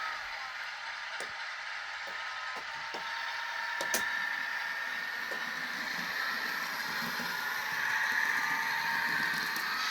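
Sound-chipped N gauge Class 158 diesel unit: the ESU sound decoder's diesel engine sound plays through the model's tiny speaker, its note shifting in pitch and growing louder in the second half. A few sharp clicks cut across it, the loudest about four seconds in.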